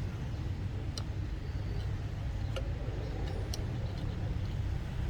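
Low, steady rumble like road traffic, with a few light, sharp clicks scattered through it.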